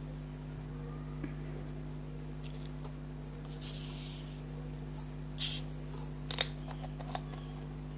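Food and tableware being handled at the start of a meal: a soft rustle, then a few short sharp clicks and crackles, the loudest about five and a half and six and a half seconds in, over a steady electrical hum.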